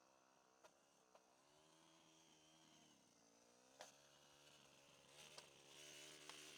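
Motor Sich walk-behind tractor's engine running faintly under load while it clears snow, its pitch sagging and picking up again a couple of times, with a few sharp clicks and knocks over it.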